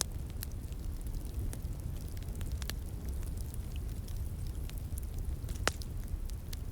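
Wood fire crackling with sparse, irregular pops, one louder pop near the end, over the steady low rush of a flowing stream.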